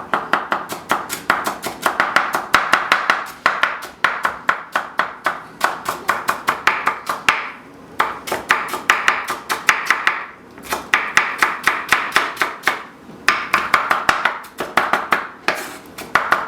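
Kitchen knife dicing celery on a cutting board: rapid chopping, about five strokes a second, in several runs broken by brief pauses.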